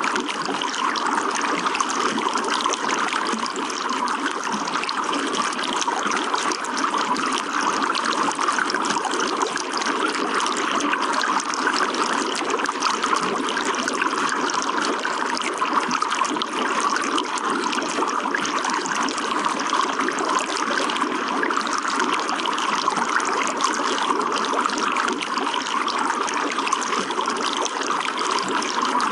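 Running water flowing steadily and evenly, with no breaks or sudden events.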